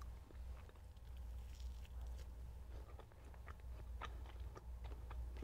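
Close-up chewing and biting of French toast, with many small irregular mouth clicks and crunches over a low steady hum.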